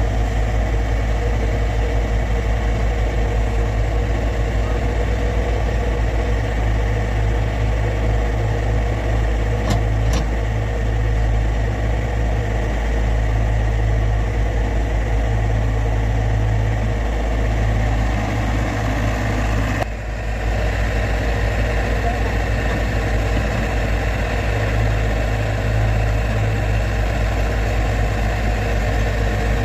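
Excavator diesel engine running steadily, with a heavy low rumble and a constant hum, and a brief dip about twenty seconds in.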